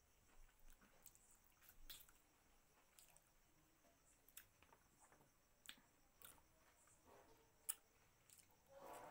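Faint close-miked chewing and mouth sounds of someone eating mutton by hand: scattered wet clicks and lip smacks at irregular intervals, one sharper click late on.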